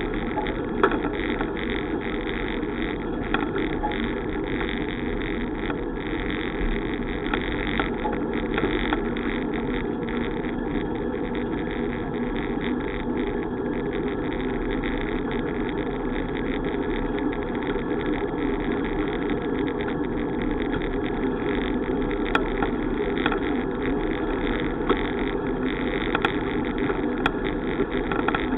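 Steady rush of wind and tyre noise from a bicycle being ridden, with a few faint clicks.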